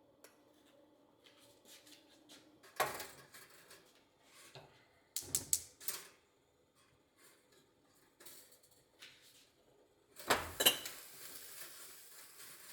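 Dishes and utensils being handled in a kitchen: a sharp knock, then a quick run of clinks a few seconds later, then another clatter near the end that runs into a steady rushing hiss.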